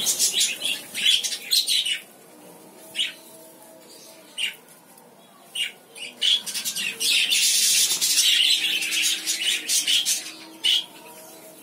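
Small cage birds chirping and chattering with sharp, high calls: a dense run at the start, a few single calls, then another busy stretch from about six seconds in until near the end.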